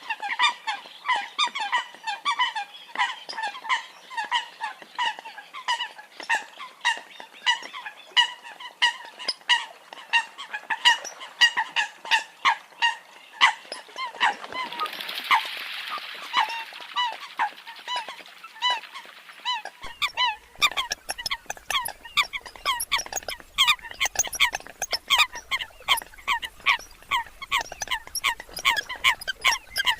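Eurasian coots calling: a rapid, unbroken series of short, sharp honking calls, several a second. A hiss of noise rises briefly in the middle, and a low hum joins the calls from about two-thirds of the way in.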